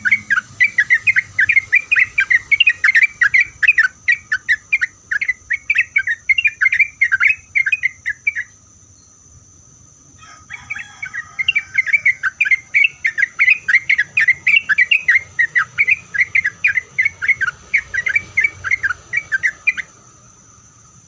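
Yellow-vented bulbul singing a long, fast run of loud, bubbly notes, about four or five a second. It breaks off for over a second around eight seconds in, then sings again until near the end.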